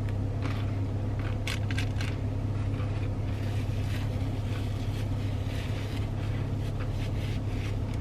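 Close-up chewing and crunching of food, with irregular crackly bites, over a steady low hum.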